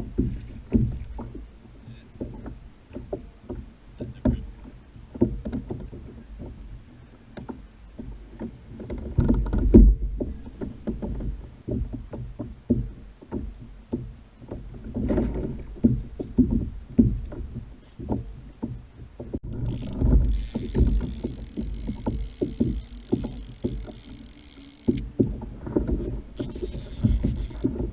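Irregular knocks and thumps against a plastic kayak hull, with a steady higher hiss for about five seconds about two-thirds of the way through.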